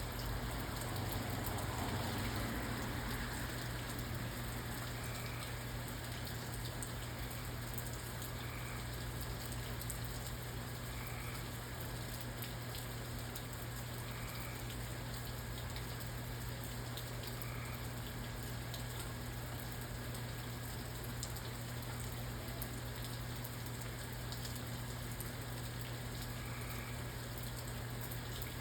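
Steady rain falling, with scattered drops tapping close by; it swells briefly a second or two in. A faint short high note repeats about every three seconds.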